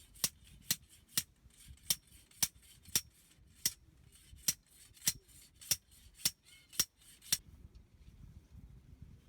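A run of sharp, evenly spaced clicks, about two a second, stopping a little past seven seconds in.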